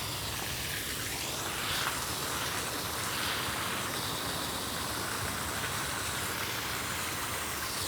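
Steady rush of a small waterfall pouring into a pond, loud and even.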